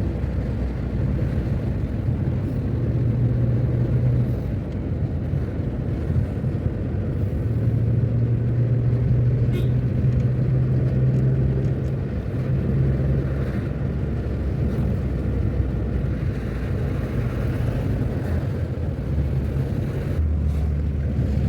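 A car driving along a road, with engine and road noise making a steady low rumble whose pitch shifts every few seconds.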